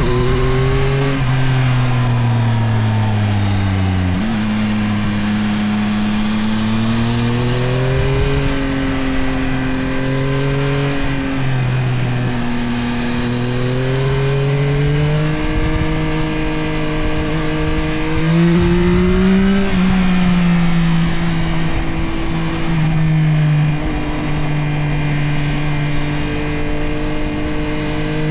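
Yamaha CP3 890 cc inline-three engine of a Tracer 9 GT+ motorcycle under way, its pitch rising and falling with the throttle. It has several sudden jumps in pitch from gear changes, heard over wind noise on the microphone.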